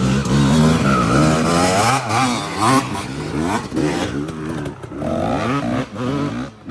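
Dirt bike engine revving hard, its pitch climbing and dropping repeatedly as it is ridden.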